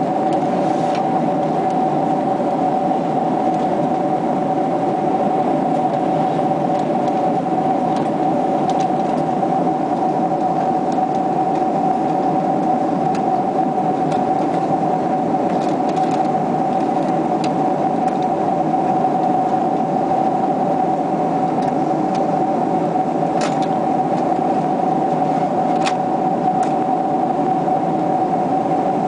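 Boeing 767-300ER cabin noise in flight: steady airflow and engine noise with a constant two-note hum, unchanging throughout.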